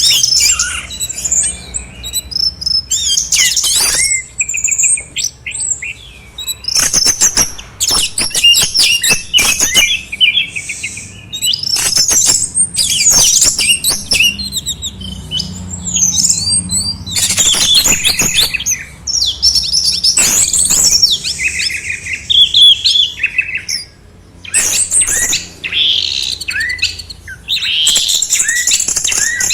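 Songbirds singing a dense, varied song of rapid trills, whistled glides and buzzy, clicking notes, almost without pause, over a faint steady low hum.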